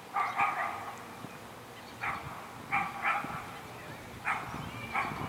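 A dog barking repeatedly, short barks in ones and twos about a second apart.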